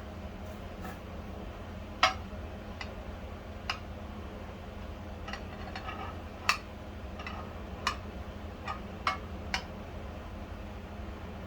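Irregular light clicks and clinks of small metal parts being handled on a workbench, about eight of them, the sharpest about two seconds in, over a steady low hum.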